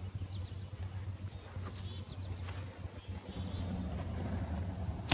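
Small birds chirping faintly now and then, in short high calls, over a steady low hum.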